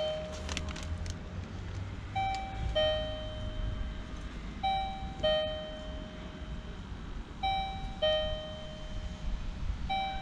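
Building entrance doorbell ringing a two-tone ding-dong chime, a higher note then a lower one, repeating about every two and a half seconds, four times, as it calls a flat and waits for an answer. A low steady rumble runs underneath.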